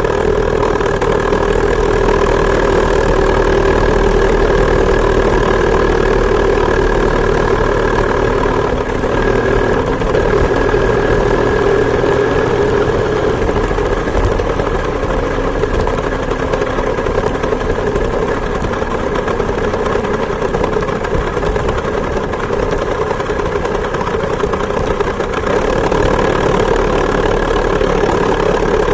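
Two-stroke chainsaw engine of a homemade moped running steadily, close to the microphone, with only slight changes in pitch.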